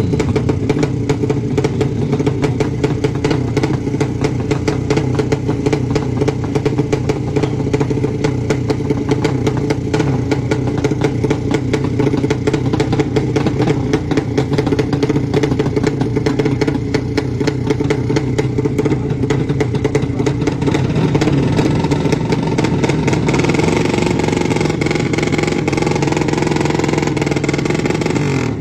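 Drag-racing motorcycle engine running hard with a rapid, rattling firing beat, its pitch rising a little near the end.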